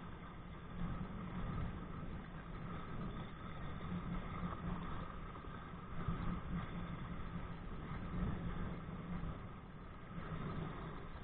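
Wind buffeting the microphone of a body-worn camera while kite kayaking: a continuous, uneven rumbling noise that swells and dips every second or so.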